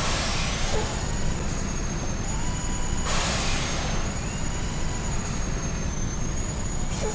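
Truck driving along: steady engine and road rumble with a thin, high-pitched whine that holds nearly level throughout.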